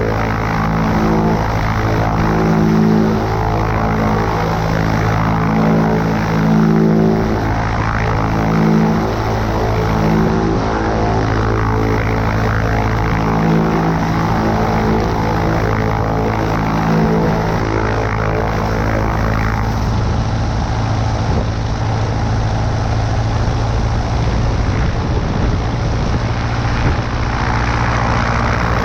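Cessna 140A's piston engine and propeller droning steadily in flight, over a rush of air. For the first two-thirds the drone swells and fades in a slow wobble, then it evens out.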